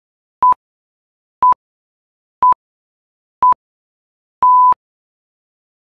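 Electronic countdown timer beeps: four short beeps one second apart, then a longer final beep on the same pitch.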